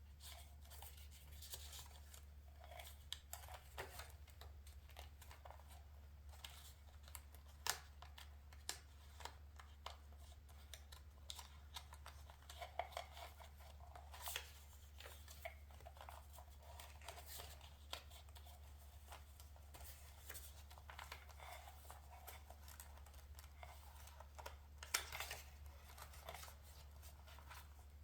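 Paper being cut with scissors and handled: a string of small crisp snips and paper rustles, loudest about 8 seconds and 25 seconds in, over a low steady hum.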